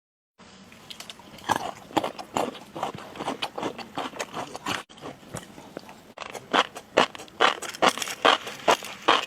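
Close-miked eating: repeated bites and crunchy chewing, about two to three a second, with two brief cuts in the middle.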